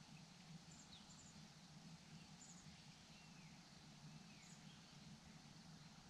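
Near silence with a low steady hum, broken by a few faint, brief, high-pitched bird chirps and short arching calls.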